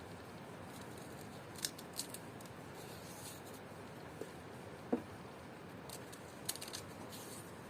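A few short, light clicks and taps, spaced irregularly over a steady low background noise.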